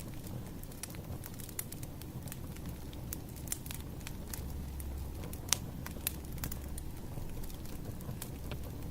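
Wood fire crackling, with irregular sharp pops and snaps over a low rumble. One louder pop comes about halfway through.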